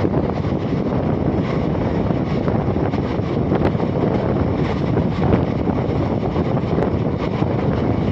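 Steady rumble of an express passenger train running at speed, with wind buffeting the microphone at an open coach window.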